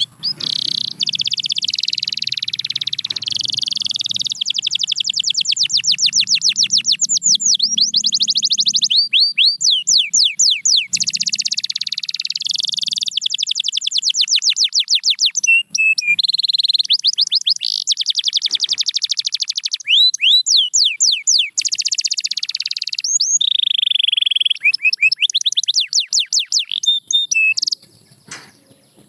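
Domestic canary singing a long, loud song of fast trills: runs of rapidly repeated notes, some rising and falling, broken by a few short pauses. The song stops shortly before the end.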